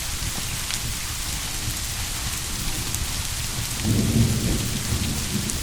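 Steady rain falling, with a low rumble of distant thunder swelling briefly about four seconds in.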